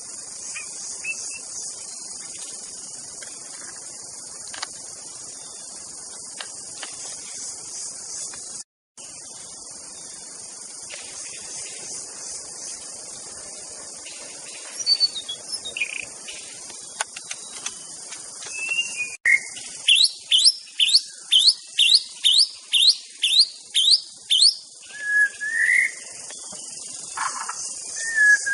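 A steady, high trilling chorus of crickets throughout. Over it a white-rumped shama (murai batu) sings: scattered whistles from about halfway, then a quick series of about ten rising whistled notes, roughly two a second, followed by varied looping whistles near the end.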